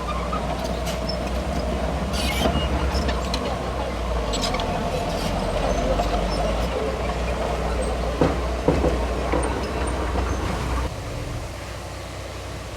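Diesel engine of a Komatsu D31P crawler bulldozer running steadily under load, with sharp clanks from the machine now and then. The engine drops to a quieter level a little before the end.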